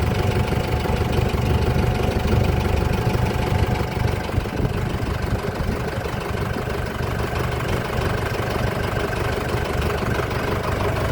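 Motorboat engine running steadily, a constant low drone with faint steady tones above it.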